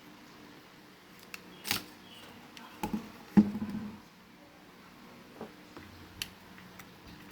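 Scattered clicks and knocks of small hard parts being handled, seven or so in all. The loudest comes about three and a half seconds in, with a short ring after it.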